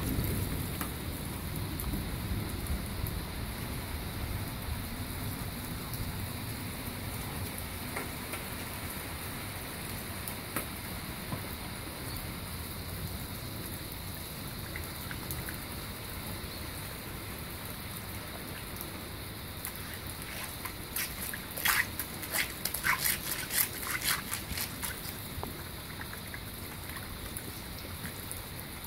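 Heavy rain falling steadily on wet brick paving, with a low thunder rumble dying away over the first few seconds. About three-quarters of the way through, a quick run of sharp wet clicks and splashes stands out as a German shepherd puppy noses and laps at a rain puddle.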